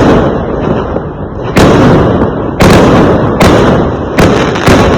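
Fireworks exploding in quick succession: about six loud sharp bangs, one every second or less, each followed by a rumbling decay.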